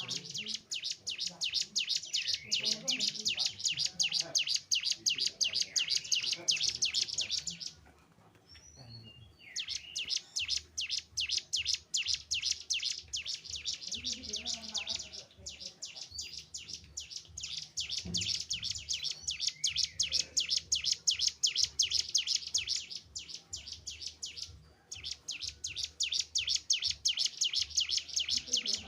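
Cigun (ciblek gunung) singing: long runs of rapid, high, evenly repeated notes, broken twice by short pauses.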